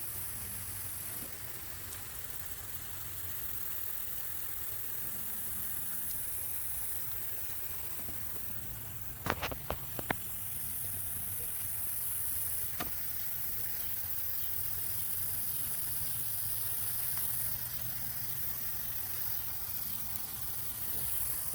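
Outdoor background: a steady high hiss that swells and fades in long stretches over a low rumble, with a quick cluster of sharp clicks about nine to ten seconds in and one more click a few seconds later.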